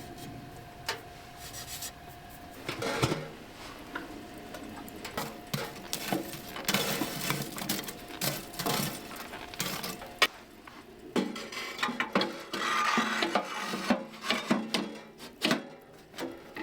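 Close handling noises: objects being rubbed and scraped, with irregular small knocks and clicks. A faint steady hum stops about two and a half seconds in.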